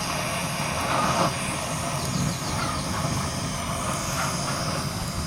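A steady rushing, rumbling noise, like a motor or a burner running, with no clear strokes or rhythm.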